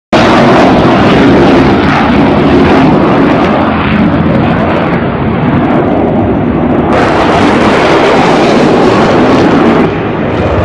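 Jet aircraft engine noise, loud and continuous, its tone shifting abruptly about four, seven and ten seconds in.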